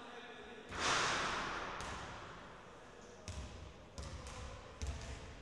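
Basketball bouncing on the court, several irregular thuds in the second half. About a second in, a loud burst of noise fades away over about two seconds.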